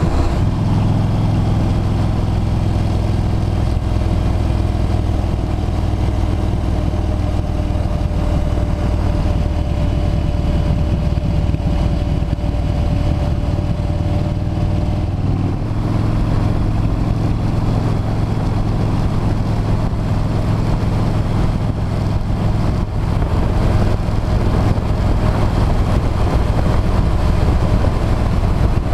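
Motorcycle V-twin engine running at a steady cruise, with wind and road noise on an action camera's microphone. The engine note changes slightly about halfway through.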